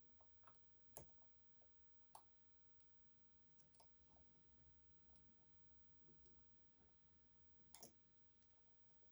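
Faint, scattered small clicks of a pick and tensioner working the sliders inside an EVVA 3KS high-security lock. The sharpest come about a second in, just after two seconds and near the end.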